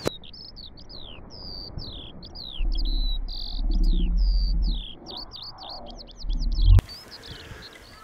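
Small bird chirping: a rapid run of short, high, downslurred whistled notes, getting quicker near the end, then cutting off suddenly. A low rumble sits underneath twice, in the middle and just before the cut-off, and is the loudest part.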